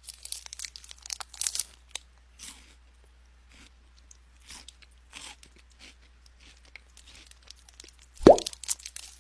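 Caterpillar chewing a leaf, heard close up: irregular small crunches and clicks, several a second. About eight seconds in there is one louder short sound that falls in pitch.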